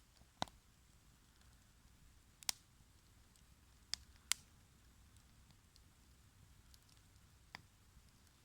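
Wood fire crackling: five sharp pops from the burning wood, two of them close together a little over halfway through, with faint ticks between them over a low, steady background.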